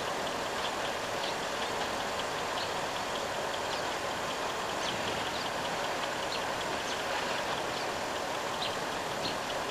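Steady rushing noise of a vehicle running, with faint, short, high chirps scattered throughout.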